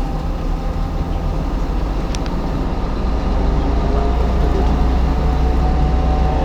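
Kanto Railway Kiha 101 diesel railcar's engine running with a steady low drone, growing somewhat louder about three seconds in.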